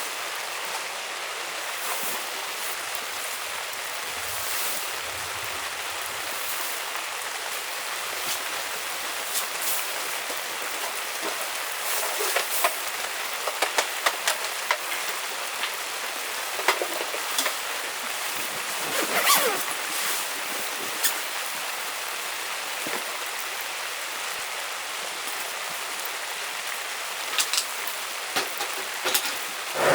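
Steady rain hiss, with scattered sharp ticks and taps of drops that come thickest in the middle.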